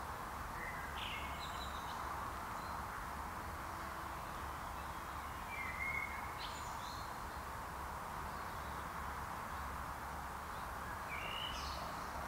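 Woodland ambience: a steady low hiss with short bird calls, chirps and whistles, in three bursts: about a second in, around the middle and near the end.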